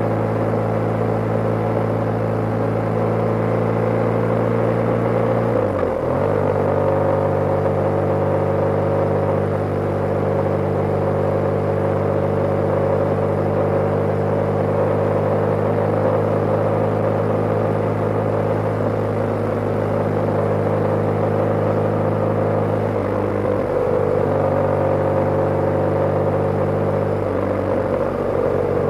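BMW G/S motorcycle's air-cooled boxer-twin engine running steadily at cruising speed, with wind and road noise. The engine note breaks and settles at a new pitch about six seconds in and again near the end, as gears are changed or the throttle is eased.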